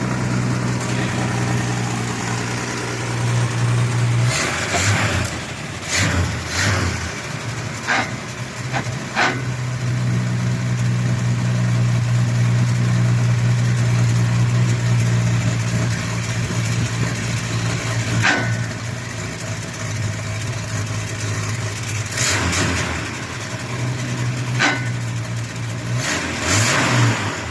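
Old Ford F-series truck engine running at a steady idle, its note changing twice. Several sharp clunks or knocks come through over it.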